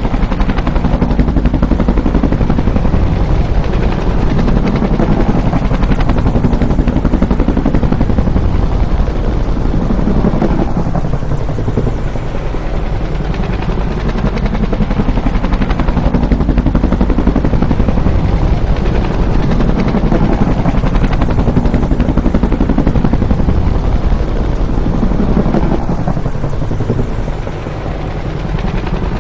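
Bell UH-1 "Huey" helicopter running loud, its two-bladed rotor giving a steady thumping beat over the engine noise. The sound swells and eases every few seconds and dips briefly near the end.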